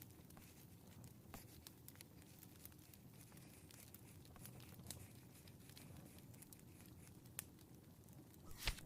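Faint fireplace crackling: scattered small pops over a low steady rumble, with one brief louder rustle near the end.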